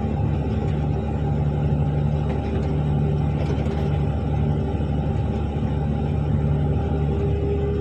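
Articulated dump truck's diesel engine running steadily: a continuous low drone with a steady hum.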